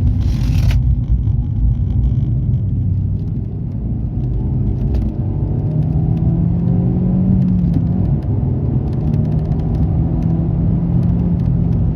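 Suzuki Swift Sport ZC32S's M16A 1.6-litre inline-four running with a steady low rumble. It breathes through an aftermarket intake filter and a GReddy sports-catalyst exhaust manifold, with the stock muffler. A brief hiss comes right at the start.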